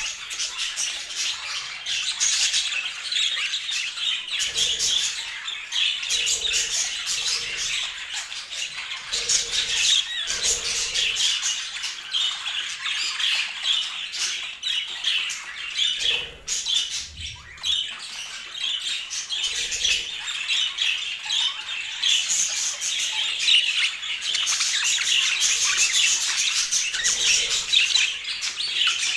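Budgerigars chattering: a continuous, busy stream of quick high chirps and calls.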